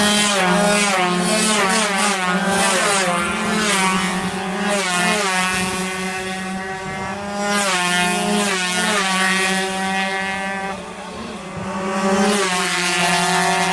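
Two-stroke 116cc underbone racing motorcycles at full throttle, their engine pitch climbing again and again and dropping at each gear change. The sound dips briefly after about ten seconds, then swells again.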